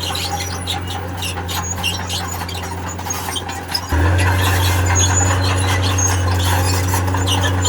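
Diesel engine of a tracked earthmoving machine running steadily under high metallic squeals and scrapes. About four seconds in the engine suddenly gets louder and holds there.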